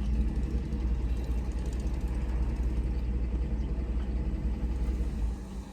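Car engine running, heard from inside the cabin as a steady low rumble that drops away sharply about five seconds in.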